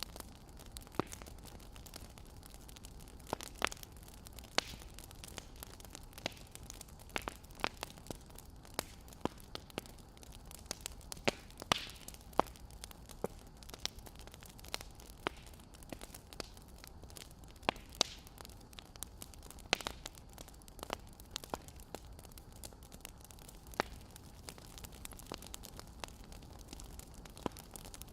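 Wood fire crackling: irregular sharp pops and snaps, several clearly louder than the rest, over a low steady hiss.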